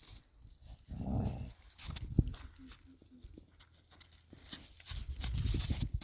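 A dog's short vocalisation about a second in, followed by a sharp knock a second later and low rustling noise near the end.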